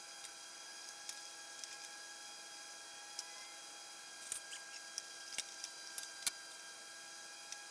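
Scattered light clicks and knocks of table saw parts and hardware being handled during assembly, with a quick run of sharper knocks about four to six and a half seconds in, over a steady hum.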